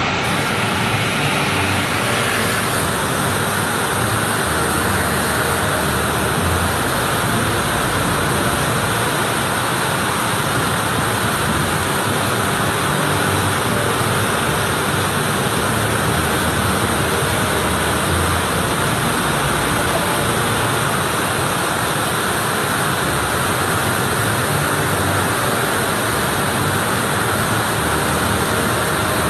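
Waterfall in flood: a steady, loud rush of falling and churning water that does not change.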